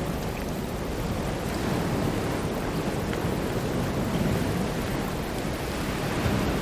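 Ocean surf: a steady, continuous wash of breaking waves, swelling and easing slightly.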